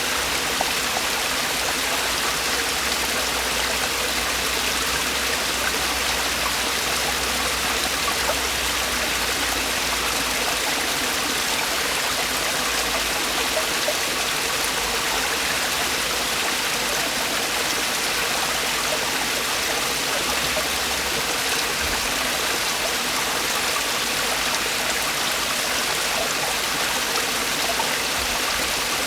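Mountain stream water falling and rushing over rocks in a small cascade, a steady even rush with no change.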